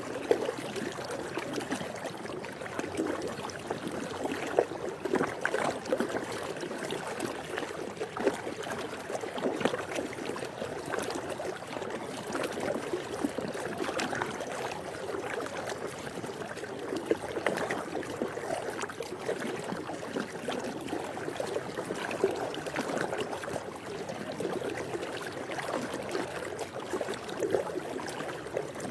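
Swimming pool water lapping and sloshing, with a continuous run of small, irregular splashes.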